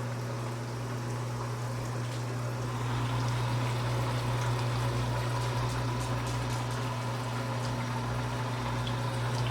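Countertop baby bottle washer running a wash cycle: a steady pump hum with water spraying and splashing inside, growing a little louder about three seconds in.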